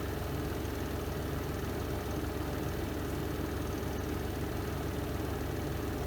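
Renova twin-tub washing machine's spin drum running a spin cycle, a steady low motor hum with a whirring rush over it.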